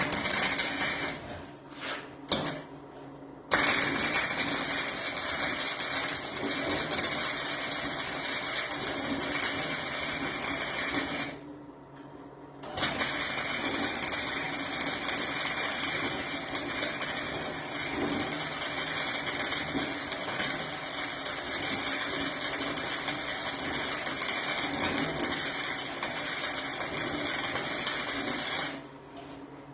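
Electric arc welding on steel: a few short tack welds, then two long steady beads with a brief break near the middle.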